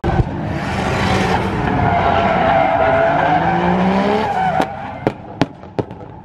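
Drift car's engine running at high revs with its tyres squealing through a long slide; about four seconds in the engine note drops away and a handful of sharp pops follow.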